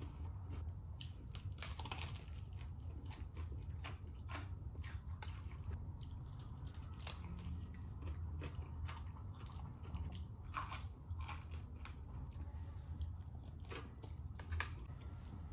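Close-miked chewing and biting of crunchy KFC original-recipe fried chicken: irregular crackles of the breaded coating and wet mouth sounds, over a steady low hum. A sharper click near the end.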